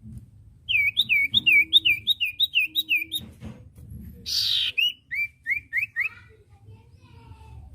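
Common iora singing: a quick run of clear whistled notes, each one sliding in pitch, about four a second. A short harsh rasp follows, then four more whistled notes.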